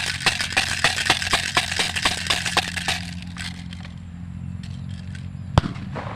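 A bird-scaring rattle clattering in rapid sharp knocks, about five a second, which die away after about three seconds; a single sharp crack comes near the end. A steady low hum runs underneath.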